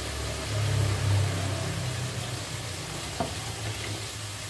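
Tempe frying in hot oil in a pan, a steady sizzle. A low rumble runs under it for the first two seconds, and there is a single click about three seconds in.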